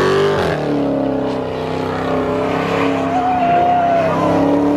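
A wide-body car's engine revving hard and held at high revs while it spins its tires, with the pitch climbing in the first half second. The tires squeal over it.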